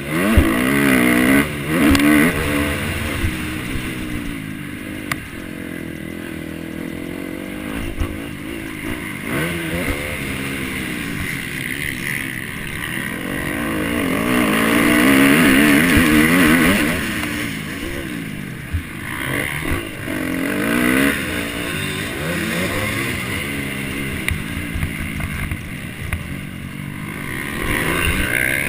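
Motocross bike engine revving, its pitch rising and falling again and again as the throttle opens and closes and gears change, loudest about halfway through.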